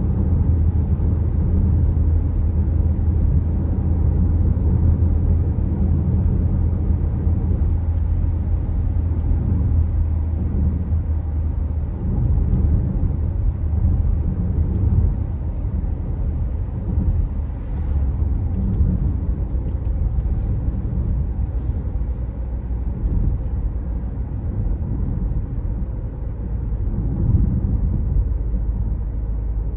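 Car driving on the road: a steady low rumble of engine and tyres. The deep engine hum eases a little about twelve seconds in.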